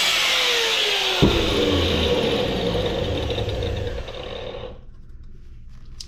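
Handheld power tool cutting into scrap metal, its motor pitch wavering as it bogs under load, with a sharp knock about a second in; it stops about five seconds in, leaving faint clicks and handling noise.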